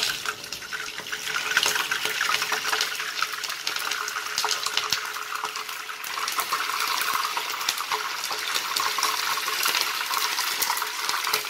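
Raw chicken wings frying in hot cooking oil in a nonstick pan: a steady sizzle full of small crackles and pops from the spattering oil.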